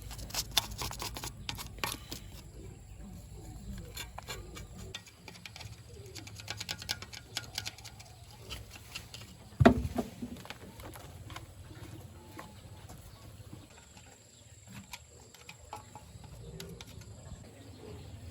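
A run of clicks and taps over a low hum that stops about five seconds in, then one loud knock about ten seconds in and scattered faint clicks.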